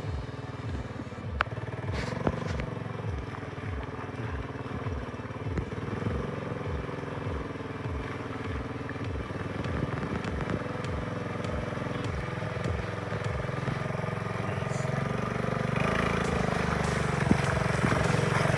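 Small single-cylinder four-stroke trail engines of a Honda XL70 motorcycle and an ATC 200M three-wheeler running steadily under way on the trail, growing louder over the last few seconds.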